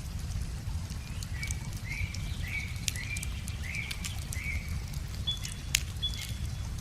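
Wood fire crackling with scattered sharp pops over a steady low rumble. A small bird sings a run of about six short rising chirps in the first half, then two brief higher notes near the end.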